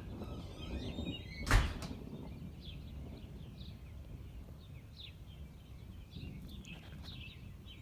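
A single sharp crack of close thunder about a second and a half in, over a steady low rumble of wind and birds chirping repeatedly in the background.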